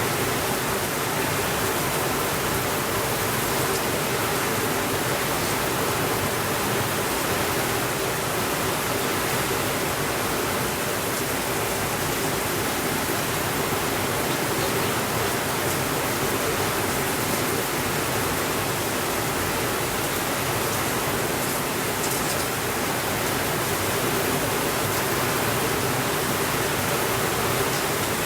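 Steady rainfall, an even, unbroken hiss with faint scattered drop ticks.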